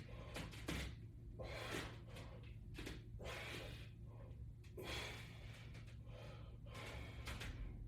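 A man's hard, gasping breaths, in and out about once a second, as he strains through pulls on a resistance band. A faint steady low hum runs underneath.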